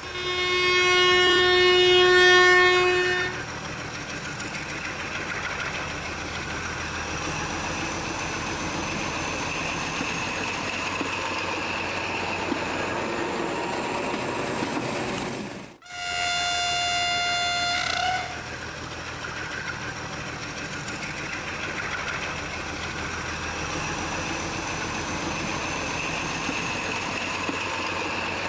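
Train horn sounding for about three seconds, then a train running along the rails with a steady rumble, light clickety-clack and a faint rising whine. After a brief cut about sixteen seconds in, a second horn sounds for about two seconds and the train runs on.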